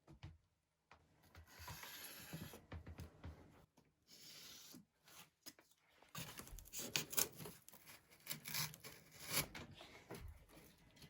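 Paint being applied to cardboard by hand: faint rubbing, scraping strokes in short spells, growing into a denser run of scratchy strokes and small taps past the middle.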